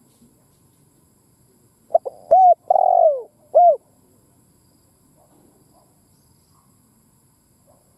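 Spotted dove (cu gáy) giving one cooing phrase of about four short, arched coo notes, starting about two seconds in and lasting under two seconds.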